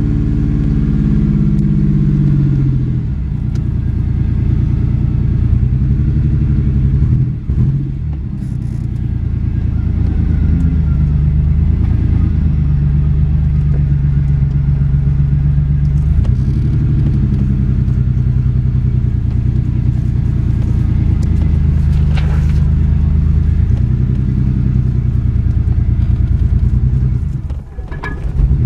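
1991 Ford Explorer's 4.0 L V6 engine running as the truck is driven, its pitch rising and falling every few seconds as it speeds up and eases off.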